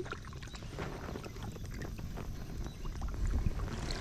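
Irregular light knocks and clicks of handling noise on a fishing kayak.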